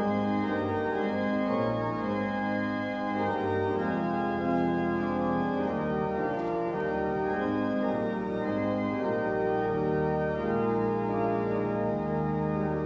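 Church organ playing a prelude in slow, sustained chords, the held notes shifting every second or so.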